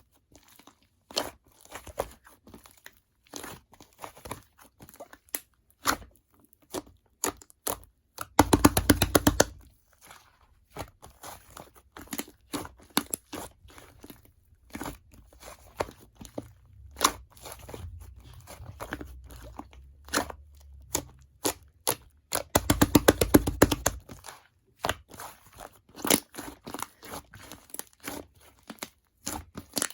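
Slime being squished and pressed by hand, a string of sticky clicks and pops, with two runs of rapid, dense crackling about eight and twenty-three seconds in.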